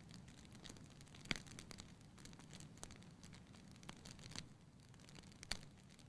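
Wood fire crackling faintly in a fireplace firebox: scattered sharp pops and ticks at irregular intervals over a quiet background.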